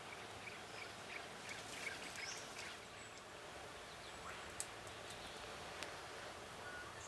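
Faint bird calls: a run of short chirps in the first three seconds, then scattered calls, with two sharp clicks in the second half, over steady outdoor background noise.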